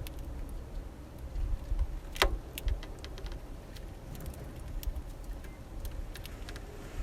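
Small finches feeding at a bird feeder: scattered brief sharp ticks from pecking and seed cracking, one louder click about two seconds in, over a steady low rumble.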